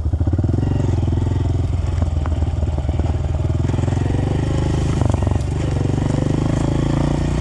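Dirt bike engine running at a steady speed, with a fast, even throb and little change in pitch.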